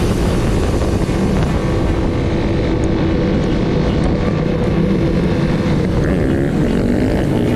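Off-road motor vehicle engine running under way, with wind buffeting the microphone; the engine pitch climbs and dips near the end as the throttle is worked.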